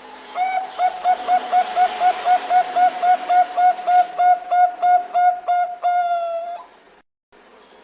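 Zebra dove (Bangkok perkutut) calling: a rapid series of about twenty short cooing notes, roughly three a second, ending in one longer held note, over a steady hiss. The sound cuts out briefly near the end.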